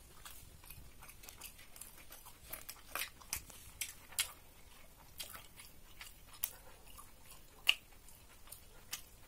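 Close-up mouth sounds of a person chewing roti with curry: irregular soft wet smacks and clicks, the loudest one a little under eight seconds in.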